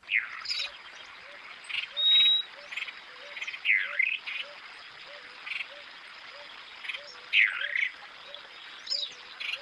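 Backyard birds calling: loud swooping calls that dip and rise again come three times, a short high whistle sounds about two seconds in, and scattered short chirps fall between them. A steady run of short, low notes repeats about three times a second underneath.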